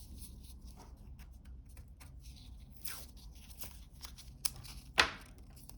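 Paper tape being pulled and torn off, with faint scattered handling clicks; one short, sharp rip near the end is the loudest.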